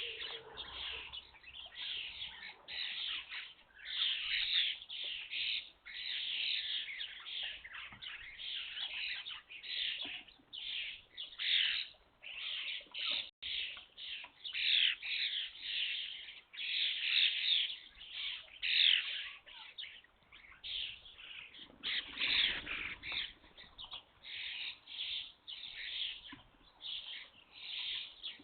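A flock of young European starlings calling continuously, many overlapping calls with no break.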